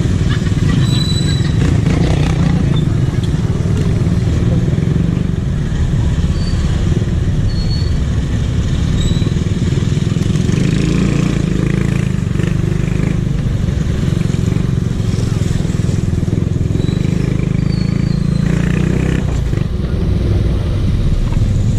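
Motorcycle engine running steadily, with people's voices in the background.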